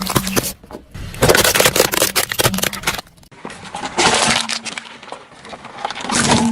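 Crunchy objects being crushed, with dense crackling and cracking in several bursts separated by abrupt breaks.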